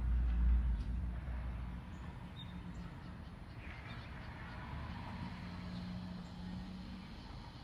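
Backyard birds calling faintly, with a low rumble of wind on the microphone in the first couple of seconds.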